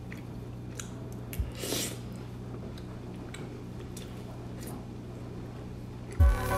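A steady low hum with a few faint clicks and a brief rustle. Music with a heavy bass beat comes in near the end.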